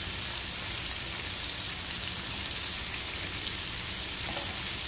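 Breaded torsilyo fish deep-frying in hot pork lard in a wok: a steady sizzle of bubbling oil.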